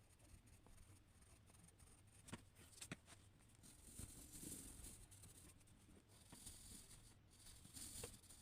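Faint scratching of a drawing tool moving over paper in strokes, with a few light taps, over a low steady hum.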